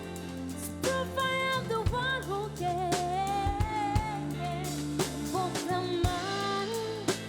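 Live band playing a slow soul-pop song: drum kit with regular hits, sustained bass and keyboard chords, and a lead melody line that slides and bends between notes.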